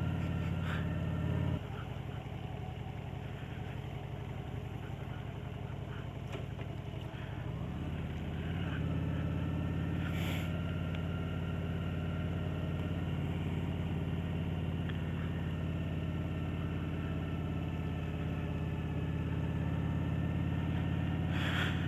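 Motorcycle engine running at low speed: it eases off about a second and a half in, then revs up in pitch around eight seconds in and settles into steady running.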